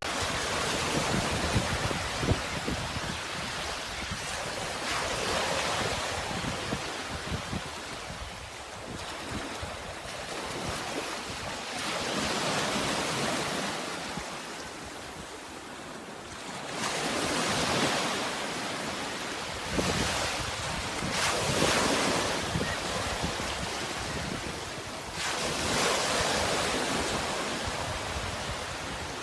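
Sea waves breaking and washing ashore, the surf swelling and falling back every few seconds, with some wind rumble on the microphone.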